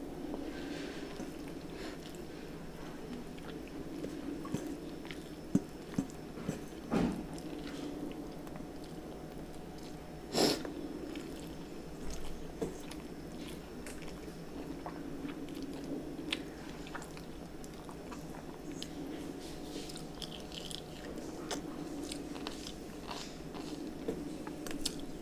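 A person chewing a mouthful of rice and curry close to the microphone, with small wet mouth clicks over a steady low hum. Two louder sharp sounds stand out, about 7 and 10 seconds in.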